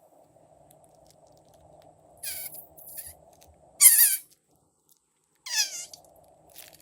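Four short, high squeaks, each falling in pitch, with the third the loudest, over a faint steady hum.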